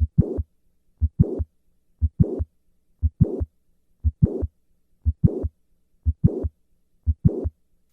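Heart sounds of mitral valve prolapse in the standing position, about one beat a second. In each beat a mid-systolic crescendo murmur builds up to the second heart sound; this murmur is typical of mitral regurgitation from a prolapsing valve.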